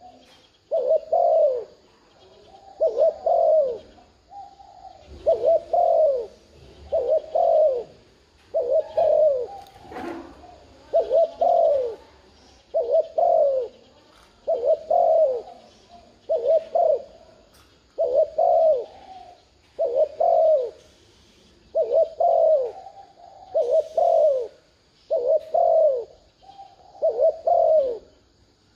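Spotted dove cooing repeatedly, a phrase of two or three low coos about every two seconds. This is the excited 'thúc gù' call, played as a lure to provoke caged male doves into cooing.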